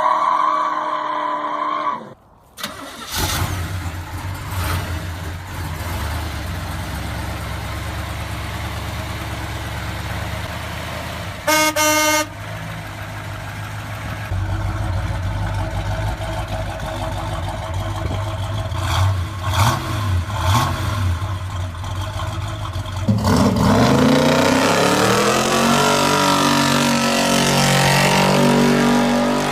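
Muscle car V8 engine rumbling, with a car horn sounding once for under a second about halfway through. Near the end the engine is revved up loudly and held at high revs.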